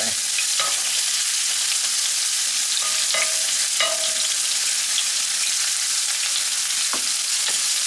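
Pork frying in hot oil in a pan: a steady sizzle, with a few light clinks now and then.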